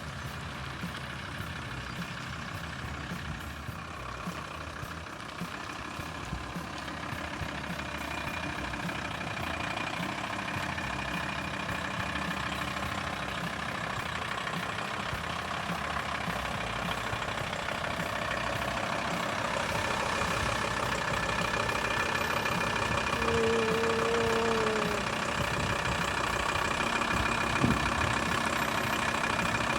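A van engine running with road noise, steadily getting louder.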